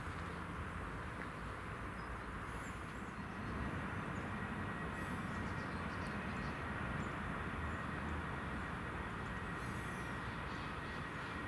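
Outdoor ambience: a steady distant rumble and hiss that grows a little louder about three and a half seconds in, with a few faint high chirps.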